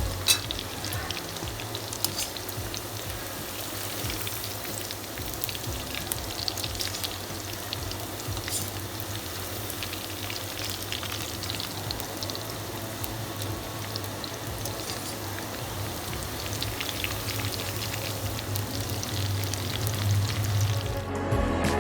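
Food frying in hot oil, a continuous sizzle with many small crackles and pops, over a steady low hum.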